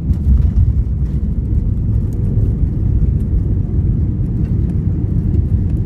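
Airliner cabin noise: a loud, steady low rumble from the engines and airflow, with light scattered rattles and clicks from the cabin.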